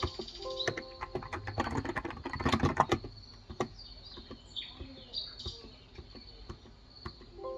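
Typing on a Cox Endeavour electro-capacitive (Topre-style) tenkeyless keyboard with light 35 g switches: a quick run of keystrokes in the first few seconds, then scattered single taps. Birds chirp throughout.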